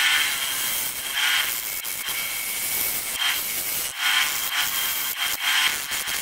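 Wood lathe turning wet sycamore, a turning tool cutting the spinning wood with a steady hissing scrape that swells and fades irregularly as the tool is worked, over a thin steady whine.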